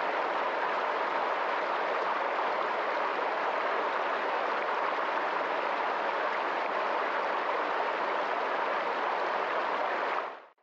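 Steady rushing water, like a flowing stream, an even hiss with no distinct events; it fades out just before the end.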